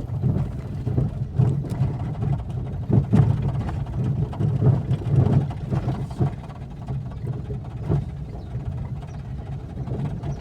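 Vehicle engine running with a steady low rumble and road noise, with scattered short knocks and rattles.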